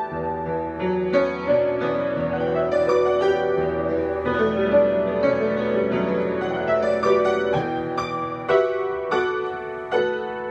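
Solo piano improvisation: chords over a sustained bass line with a melody struck on top, turning into separate chord strikes near the end.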